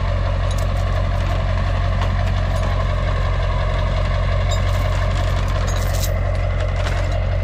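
A motor vehicle's engine idling steadily with an even low drone, with a few light clicks and rattles a little past the middle.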